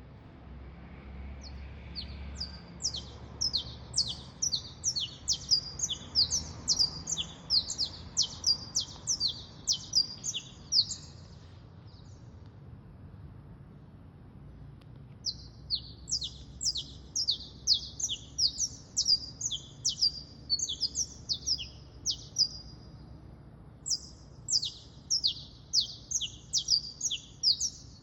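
A songbird singing long, fast runs of high, sharply down-slurred notes, about four or five a second, in three bouts separated by pauses of a couple of seconds.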